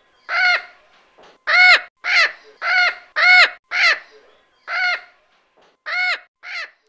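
Macaw squawking: about nine short calls in a loose series, each rising then falling in pitch, with a gap of about a second before the last few.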